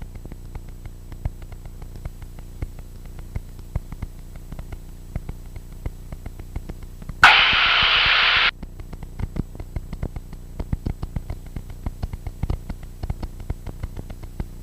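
Cockpit intercom audio in a Cessna 172SP: a steady low drone under frequent irregular crackling clicks of static. About seven seconds in, a click opens a roughly one-second burst of radio hiss with no words, a transmission keyed without speech.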